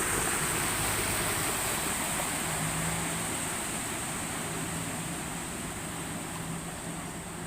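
A vehicle's engine running low and steady over a steady rush of water as it drives through floodwater, the sound easing off gradually.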